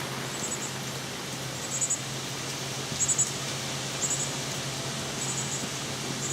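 Steady hiss of storm wind and rain, with short bursts of very high-pitched chirps, two to four quick pips at a time, repeating about once a second from a small animal.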